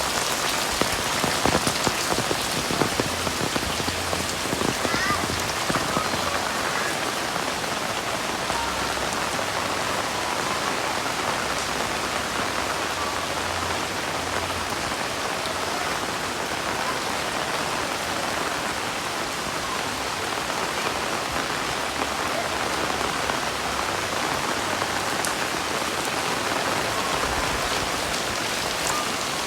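Heavy rain falling steadily, with a few sharper, louder drop hits in the first several seconds.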